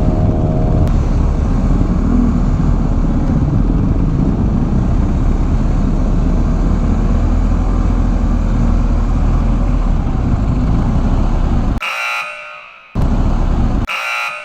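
Steady rushing wind and engine noise from a motorcycle on the move, with no speech. About twelve seconds in, the ride noise drops away and an electronic beep takes over, repeating about every two seconds.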